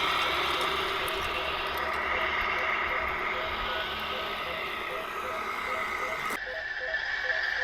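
Radio-controlled construction vehicles running, their small electric motors and gearboxes making a steady mechanical whir with a faint, rapidly repeating tone. The sound changes abruptly a little over six seconds in, when the higher part drops away.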